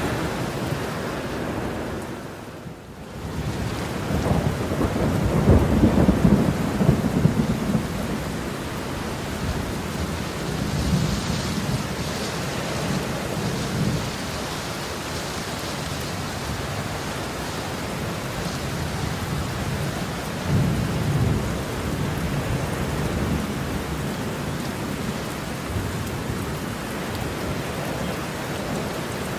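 Heavy rain falling steadily, with rolls of thunder rumbling low underneath. The level dips briefly about two to three seconds in. The biggest rumble swells from about four to eight seconds in, and a shorter one comes around twenty seconds.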